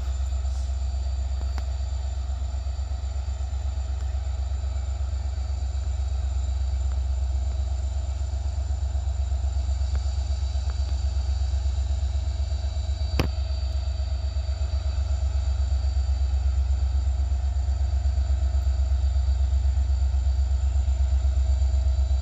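Diesel locomotive engine running, a steady low rumble with an even throb that grows slightly louder over the stretch. A single sharp click comes about halfway through.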